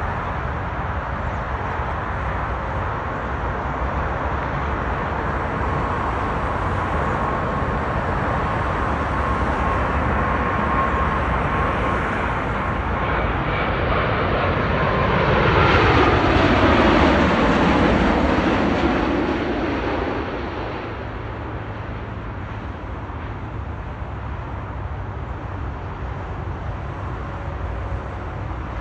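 Boeing 787 jet airliner's engines on landing. The noise swells to its loudest about halfway through, its pitch falling as the aircraft passes by, then drops back to a lower, steady rumble.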